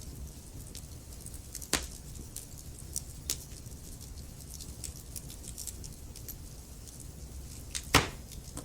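Logs burning in a fireplace: a steady low rumble of flames with many small crackles, and two sharp pops, one about two seconds in and a louder one near the end.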